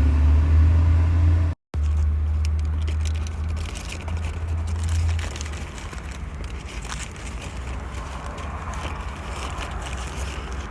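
Low, steady vehicle rumble that drops in level about five seconds in, with scattered clicks and rattles over it.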